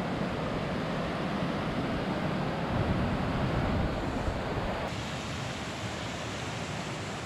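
Steady rushing of a creek waterfall. About five seconds in the sound changes abruptly and loses its deep low rumble.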